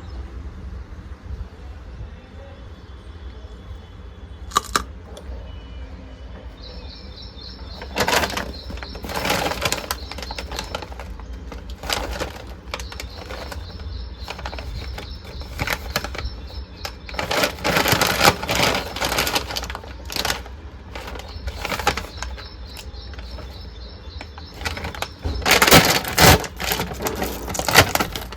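Irregular bursts of rustling and crackling from snack packets being handled, loudest in clusters near the middle and near the end, over a low steady hum.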